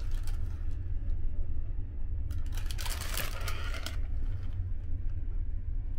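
Steady low rumble of a moving train heard inside the compartment, with a burst of paper and cardboard rustling from about two to four seconds in as a breakfast box and napkin are handled.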